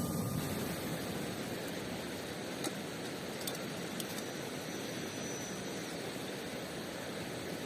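Mountain river rushing steadily, with a few faint sharp clicks near the middle and a faint thin high whistle for a couple of seconds.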